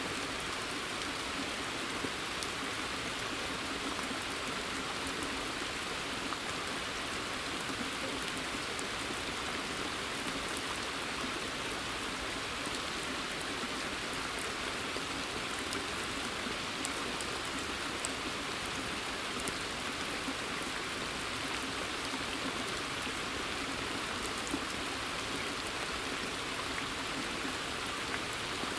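Steady rain falling in a forest and on a pond's surface, an even hiss with single drops ticking here and there.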